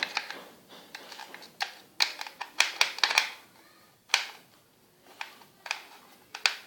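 Irregular clicks, taps and rustles of a plastic toy being handled while batteries are fitted into it.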